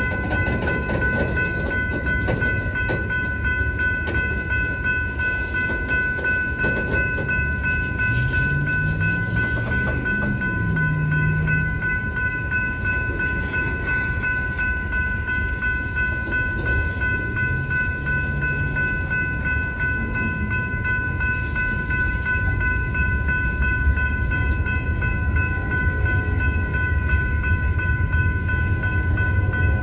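Freight train of tank cars and covered hoppers rolling steadily through a grade crossing, with a continuous rumble of wheels on the rails. The crossing signal's warning bell rings without pause over it.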